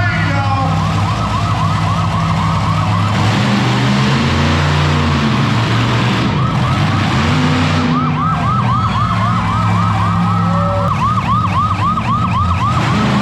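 Siren yelping in fast rising-and-falling whoops, about four a second, over a low engine drone. The siren drops out for a few seconds in the middle, where a louder rushing noise takes over.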